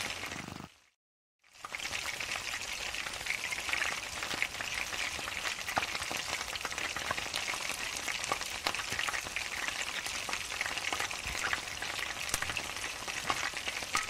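Batter-coated boneless chicken pieces frying in hot oil in a pan: a steady sizzle full of small crackles and pops. It cuts out briefly about a second in, then carries on.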